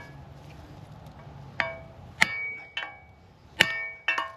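Steel hammer blows ringing on steel wheel-bearing parts: about six sharp, irregularly spaced metallic strikes, each leaving a short bell-like ring. The first comes about a second and a half in, and two come close together near the end.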